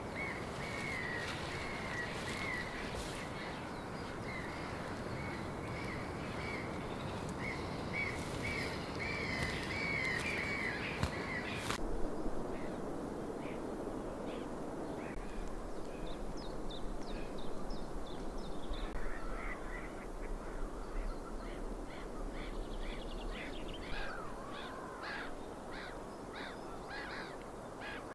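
Wild birds calling again and again over a steady outdoor rush of noise. About twelve seconds in the sound changes suddenly to a different set of varied, gliding calls.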